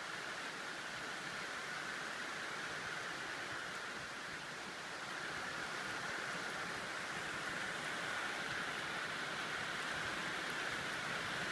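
Steady hiss of rain falling, growing a little louder about halfway through.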